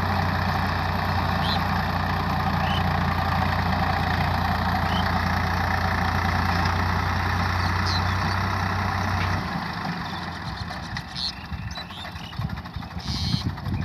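Swaraj 855 FE tractor's three-cylinder diesel engine running steadily at a low, even idle. About nine seconds in, its sound cuts off abruptly, leaving quieter, uneven noise.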